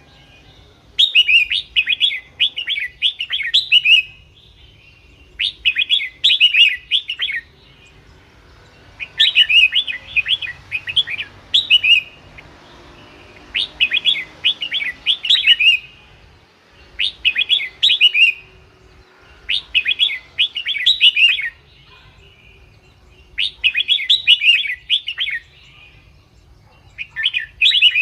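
Red-whiskered bulbul singing: short phrases of rapid, bubbling notes about two seconds long, repeated about eight times with pauses of a second or two between them.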